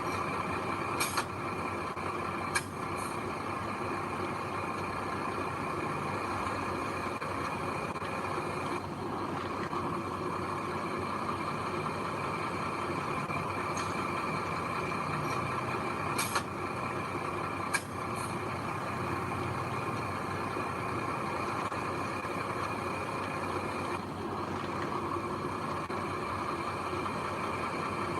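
Heavy machinery engine running steadily, with a few sharp clicks, two of them near the start and two more about halfway through.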